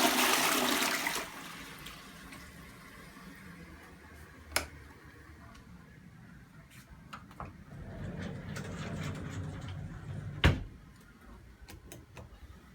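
Toilet flushing: a loud rush of water that drops away about a second in, then a quieter steady run of water as it refills. A click comes about four and a half seconds in and a sharp knock about ten and a half seconds in.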